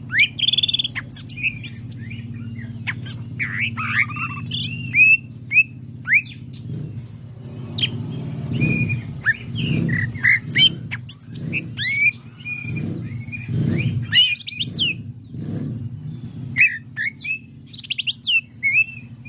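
Cucak ijo (leafbird) singing busily: a varied stream of sharp whistles, rising and falling chirps and quick trills, with hardly a pause. A low steady hum runs underneath, with low pulses about once a second in the middle.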